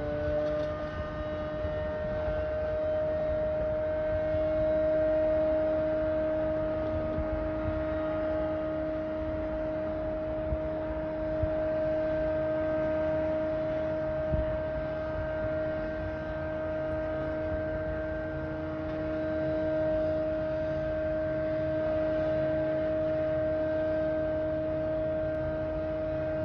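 A loud constant drone at one steady pitch, with a second tone an octave below it, over a low rumble. It does not change in pitch or stop.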